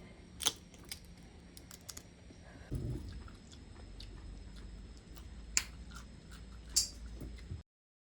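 Close-miked eating sounds: chewing with scattered sharp clicks and crunches, three of them louder cracks, over a low steady hum. The sound cuts off abruptly near the end.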